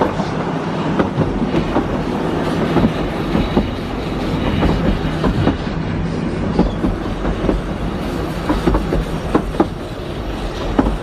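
Narrow-gauge steam train coach running along the line, heard from inside the compartment at an open window: a steady rumble with irregular clicks and knocks from the wheels on the rails.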